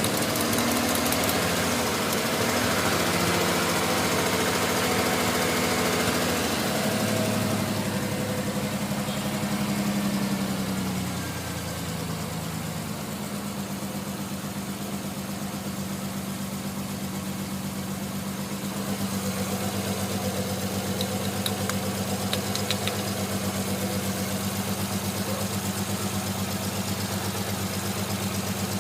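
Nissan Skyline R33's naturally aspirated straight-six idling, its idle speed dropping in three steps in the first two-thirds and then holding steady. This is the engine the owner says runs rough and misfires until it has warmed up for about ten minutes.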